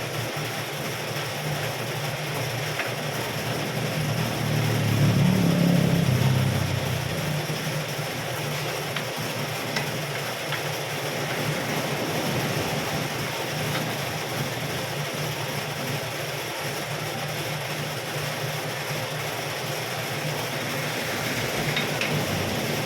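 Metal lathe running steadily while cutting a broken alloy bearing hub: a continuous low hum under a wash of cutting noise, swelling louder about five seconds in.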